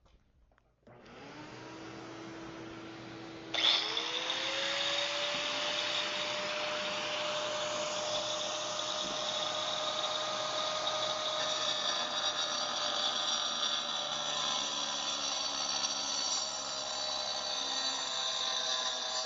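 A vacuum cleaner and a 4.5-inch angle grinder fitted with a diamond cutoff wheel are switched on one after the other, about a second and three and a half seconds in. Each spins up with a rising whine, and then both run steadily.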